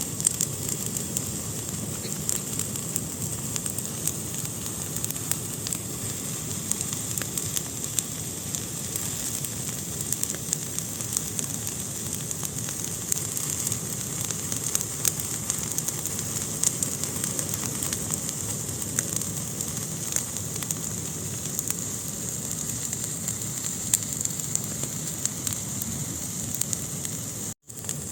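Wood fire burning in a fireplace: a steady hiss with many small crackles and pops. The sound cuts out for an instant near the end.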